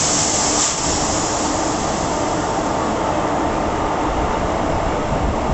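Passenger express train rolling into a station, a steady rumble of coaches on the rails, with a short hiss just at the start.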